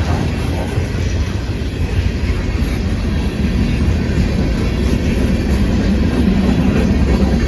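Freight cars of a long freight train rolling past, steel wheels on the rails making a steady low rumble.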